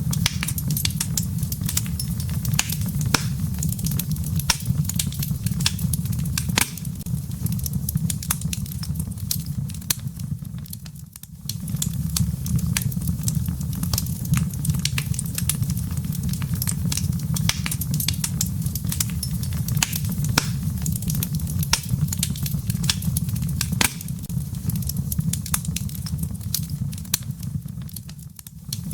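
Wood fire burning in a fireplace, with a steady low rumble of flames and frequent irregular sharp crackles and pops from the embers. The sound dips briefly twice, about a third of the way in and again near the end.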